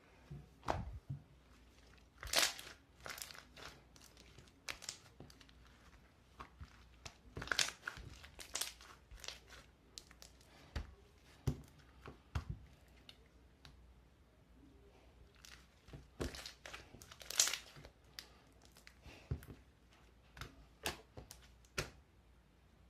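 Irregular crinkling and tearing of a thin material being handled, in short crackling strokes with louder bursts about two, seven to nine, and sixteen to seventeen seconds in.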